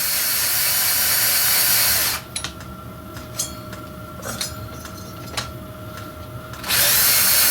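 A small electric workshop machine running. It gives a loud hiss for about two seconds, drops to a quieter steady whine with a few clicks, and returns to the loud hiss near the end.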